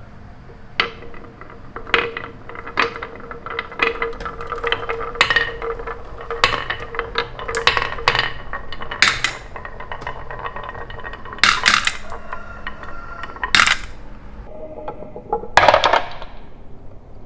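Small hard objects knocking and clinking together at an irregular pace, each strike ringing briefly. A few louder clacks come near the end.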